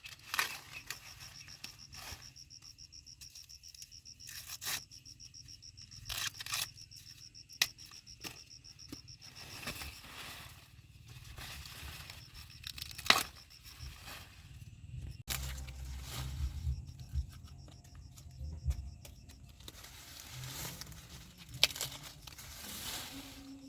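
Scattered rustling and crackling, like dry plant material being handled, over a faint, steady, high insect trill.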